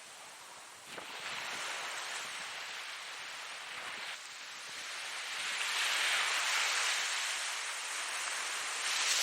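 Ocean waves breaking and washing in, a hissing surf that surges suddenly about a second in, eases, then swells again around six seconds and once more near the end.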